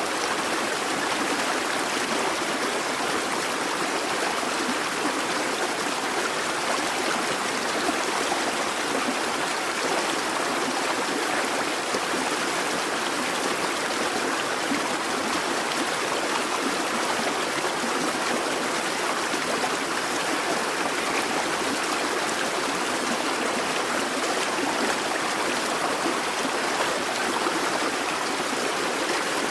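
A busy babbling brook: water running and splashing over stones, steady and unbroken.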